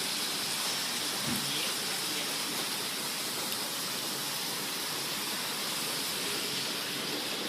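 Heavy thunderstorm rain pouring down as a steady hiss.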